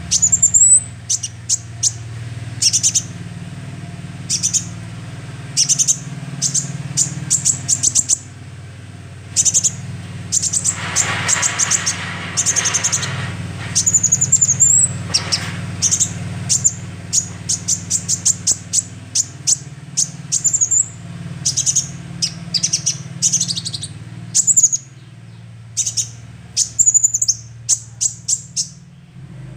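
Young sunbird singing: quick bursts of high-pitched chirps and rapid trills with short rising notes in between, over a steady low hum.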